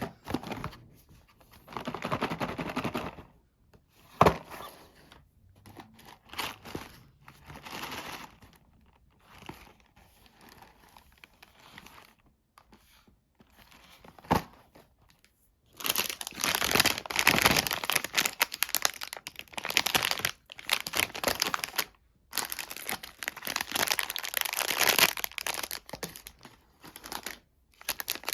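A chocolate sweet's wrapper being crinkled and torn open. Scattered rustles with a couple of sharp clicks at first, then dense, steady crinkling from about halfway.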